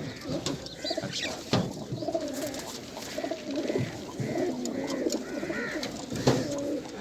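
Several racing pigeons cooing, low warbling calls overlapping one another, with a few higher chirps and occasional sharp taps.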